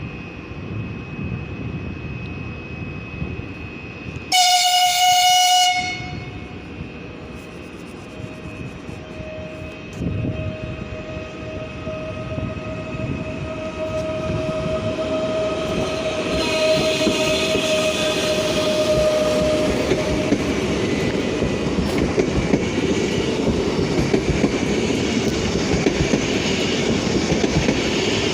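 PESA Dart ED161 electric train: one loud horn blast lasting about a second and a half, about four seconds in. Then a steady electric whine rises slightly in pitch, and the rumble and clatter of wheels on the rails grows louder through the rest.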